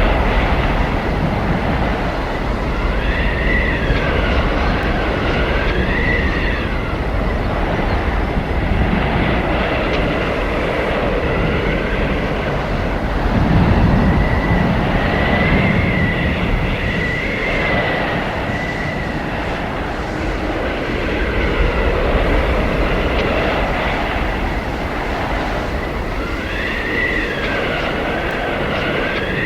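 Blizzard wind blowing hard: a dense rush with a low rumble, and a high whistling howl that glides up and down in pitch, returning in three spells about ten seconds apart.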